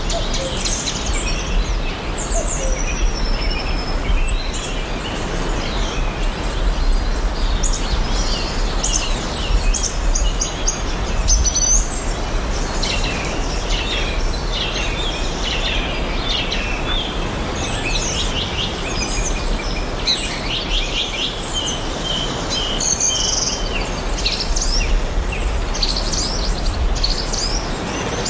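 Several songbirds chirping and trilling over a steady hiss of background noise, like distant water or wind in the trees, with a low rumble underneath. The birdsong grows busier about halfway through.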